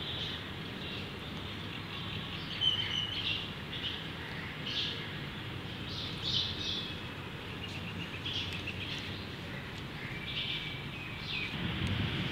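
Small birds chirping in short, scattered high calls, a few every couple of seconds, over a steady background hum.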